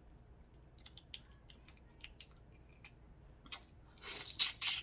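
Faint scattered clicks of seafood shells being handled while eating a seafood boil, with a louder crunching crackle of shell about four seconds in.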